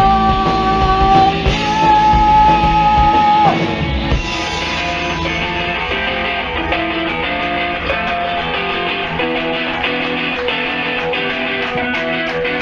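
Live rock band: a long held sung note over guitar and drums, ending about three and a half seconds in. It gives way to a slightly quieter instrumental passage of electric guitar phrases over the drum kit.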